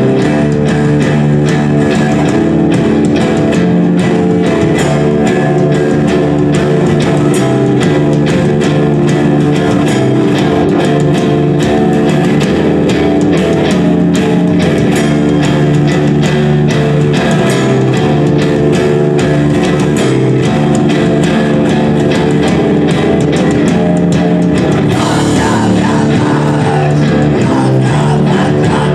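Loud, continuous guitar-driven rock music from a live band, with electric guitar and bass guitar, turning brighter near the end.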